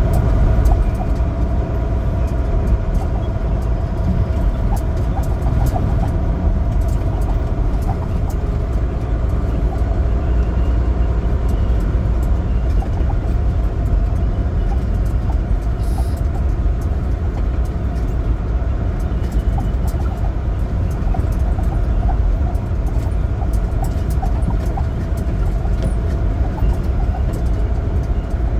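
Semi truck driving at a steady speed: a continuous low rumble of engine and road noise, with scattered faint clicks.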